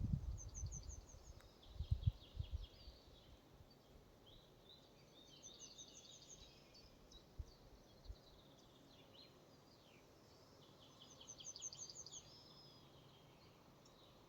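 A songbird singing three short, quick trilled phrases about five seconds apart over a faint steady forest hush, with a few low rumbles in the first couple of seconds.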